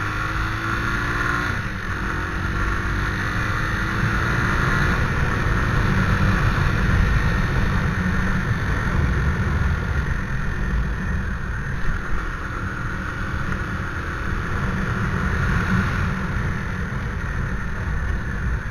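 A motorcycle on the move: heavy wind noise on the microphone over the engine. The engine's pitch rises in the first couple of seconds, then settles into a steady run.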